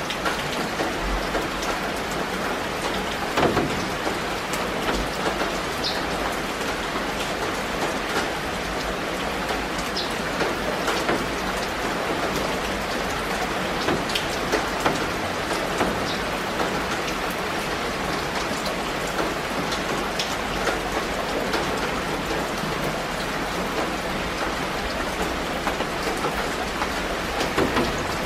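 Steady rain falling on leafy foliage: a constant hiss with many individual drops ticking close by, a few of them louder.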